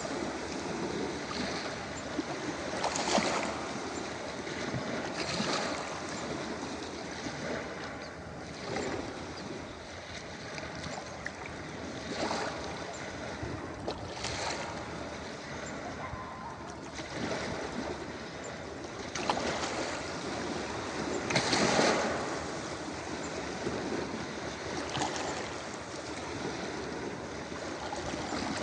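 Small ocean waves breaking and washing up a beach over a steady hiss of surf, a wave surging in every two to three seconds; the loudest break comes about three-quarters of the way through.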